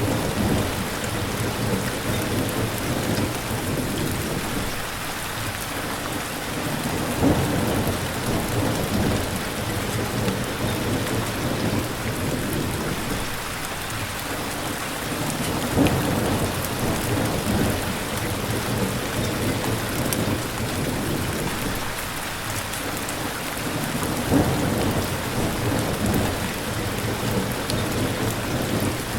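Steady heavy rain with low thunder rumbles that swell and fade several times.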